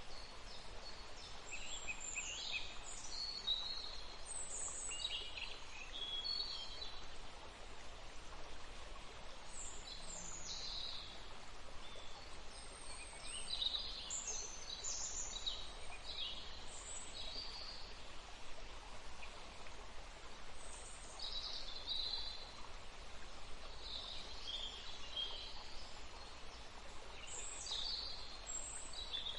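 Steady running water with birds chirping and calling over it in short clusters of quick notes.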